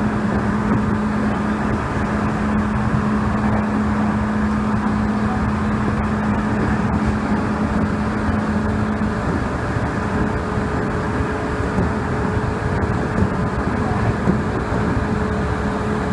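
Seibu Railway 2000-series electric train running, heard from inside the leading car: a steady rumble with a low steady hum that stops about nine seconds in, and a higher steady tone from about ten seconds. This is the unit's normal running sound, with no abnormal noise.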